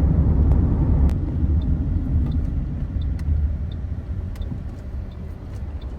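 Toyota Corolla GLi running with a steady low rumble that eases off in the second half. No tappet clatter is heard, the tappets having just been repaired.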